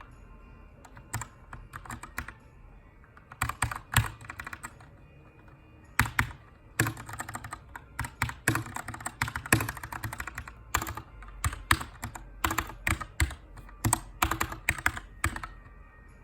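Typing on a Keychron K2 mechanical keyboard with an aluminum frame and brown tactile switches: irregular bursts of key clicks with short pauses, as in text editing. It starts about a second in and stops shortly before the end.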